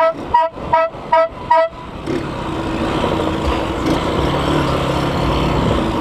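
Novelty multi-tone vehicle horn beeping rapidly in a two-note pattern, about two and a half beeps a second, which stops about two seconds in. It is followed by a steady rumble of engine and street noise.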